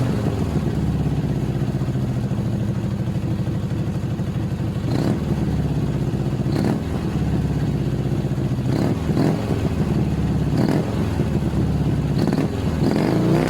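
Dnepr motorcycle's flat-twin engine running through IZh motorcycle mufflers, idling with a series of short throttle blips.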